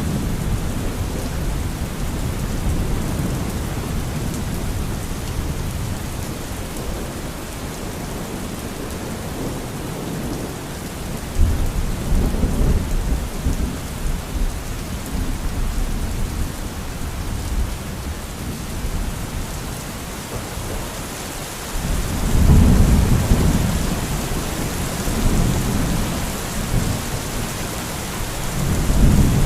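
Thunderstorm: steady heavy rain with rolling thunder, a rumble about a third of the way in and a louder one about three-quarters of the way through.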